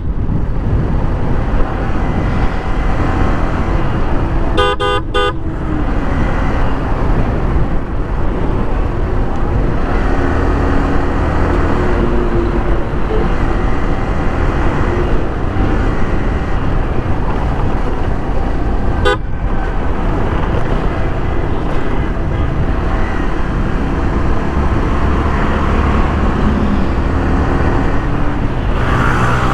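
Riding a motorcycle at road speed: heavy wind rumble on the microphone with road and traffic noise. A vehicle horn honks for about a second near five seconds in, and again briefly a little before twenty seconds.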